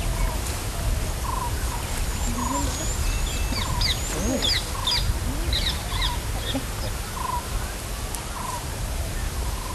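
Birds calling: a short note repeated about once a second, with a burst of higher twittering and chirps in the middle, over a steady low rumble.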